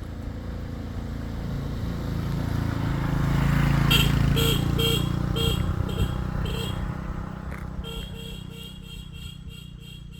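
A motor vehicle going past, its engine rumble growing to loudest about four seconds in and then fading away. From the loudest point on, a short high beep repeats about twice a second.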